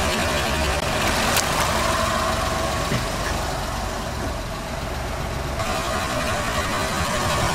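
Car engine idling steadily close by, a low rumble under an even hiss.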